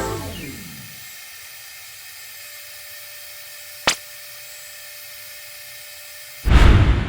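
Small handheld electric jet-fan blower running with a steady whirring hiss and a faint steady whine. A sharp click comes about four seconds in, and near the end a sudden loud rush of air sets in.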